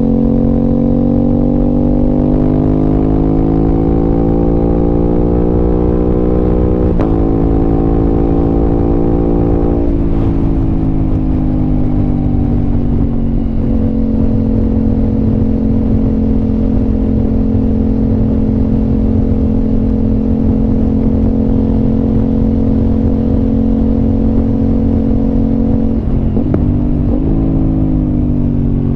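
An Aprilia RS 660's parallel-twin engine through an SC Project exhaust, heard while riding. The engine pulls up through the revs with a brief break in pitch about seven seconds in, then the revs drop away. It holds a steady cruise, then gives a couple of quick jumps in pitch near the end before the revs fall again.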